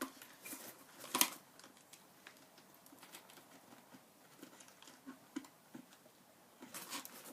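Faint handling noises from a plastic-bottle bird feeder being put together: light taps and rustles, with one sharper click about a second in.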